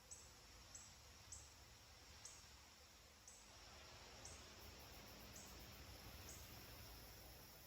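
Near silence: faint forest ambience with short, high chirps repeating roughly once a second over a soft hiss and low hum.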